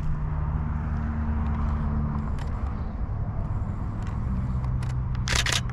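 A steady low engine drone whose pitch shifts slightly a couple of times, with a quick burst of camera shutter clicks near the end.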